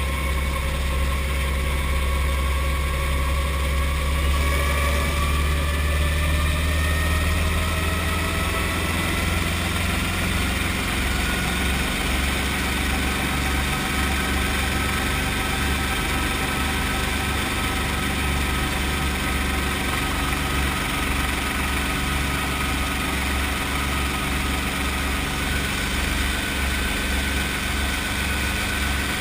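Brantly B2B helicopter's piston engine running at low rpm during start-up, a steady low throb with a faint whine that rises in pitch over the first ten seconds or so, then holds steady.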